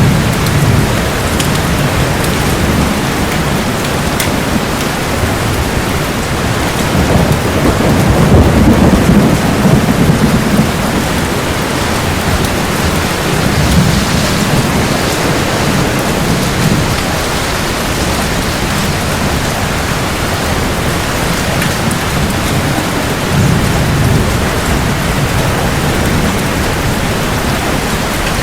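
Heavy rain falling steadily, with several low rolls of thunder rumbling through it; the loudest roll comes about a third of the way in, with weaker ones around halfway and near the end.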